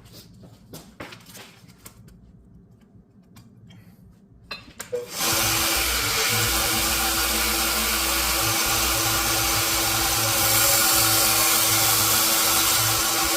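A few light clicks and knocks, then about five seconds in an electric power tool starts up suddenly and runs at a steady speed with a constant hum.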